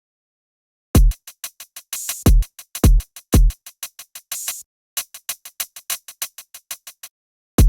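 An electronic drum beat played back from Native Instruments Maschine. It has deep kick drums, fast ticking hi-hats and a few noisy snare-like hits. The beat starts after about a second of silence. About halfway through, the kicks drop out and only the hi-hats go on, then the beat stops briefly before a last kick.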